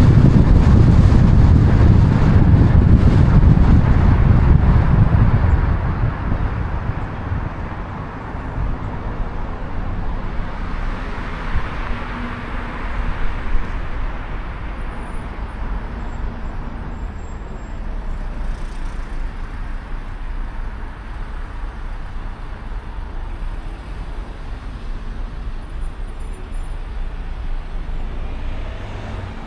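Road traffic: a vehicle rumbles past close by in the first few seconds and fades away after about six seconds, leaving steady traffic noise, with another vehicle swelling past in the middle.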